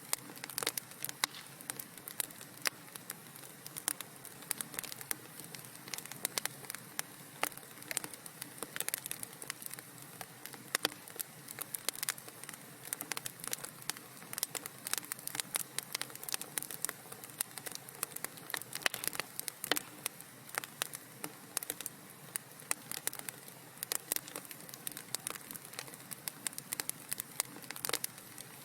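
Wood fire crackling in a fireplace: a steady low hiss with frequent irregular sharp pops and snaps.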